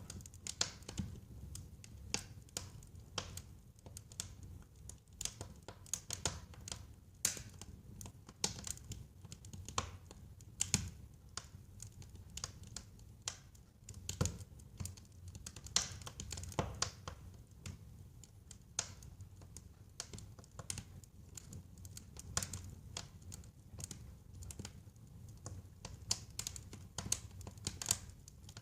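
Wood fire burning in a fireplace, crackling with irregular sharp pops of varying loudness over a low steady rumble.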